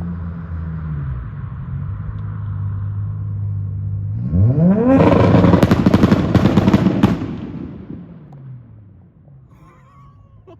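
Modified MK4 Toyota Supra's inline-six idling, then revving sharply onto the two-step launch limiter about four seconds in. For about two seconds it holds there, bouncing off the limiter with a rapid string of loud bangs and cracks, really loud. The sound then dies away.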